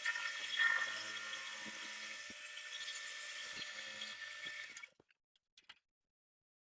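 A small power tool whirring steadily, cutting off abruptly about five seconds in.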